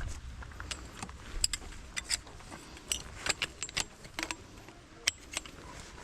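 Camping gear being handled while pitching a tent: irregular sharp clinks and rattles, as of metal pieces knocking together.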